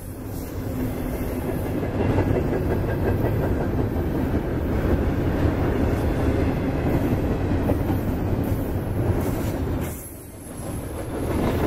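Double-stack intermodal freight train's loaded well cars rolling past close by, their steel wheels running on the rails in a steady, loud rolling noise that dips briefly about ten seconds in.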